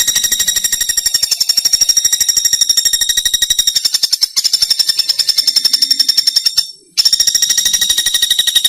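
Pelatuk bawang woodpecker calling: a long, rapid, even trill of high notes, broken by a short gap about seven seconds in.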